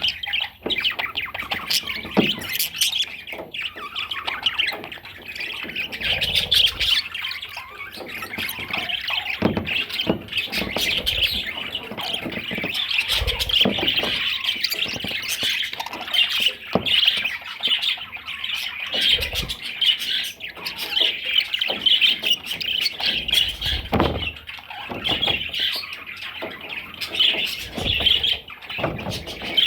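Budgerigar chattering and warbling continuously in a dense, busy stream of squawks and chirps, with scattered short clicks and taps.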